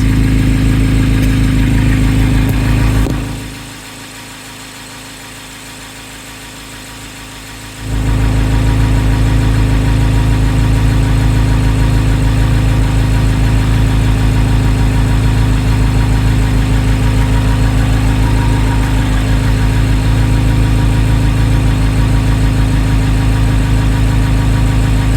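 Corvette V8 engine idling steadily. About three seconds in the sound goes muffled and faint for roughly four seconds, then returns at full level.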